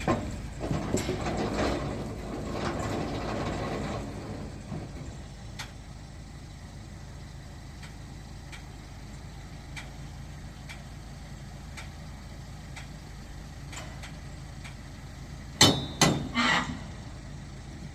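Dump truck engine idling steadily. A clattering rumble, fitting logs tumbling off the bed, fills the first few seconds, and two or three loud knocks come near the end.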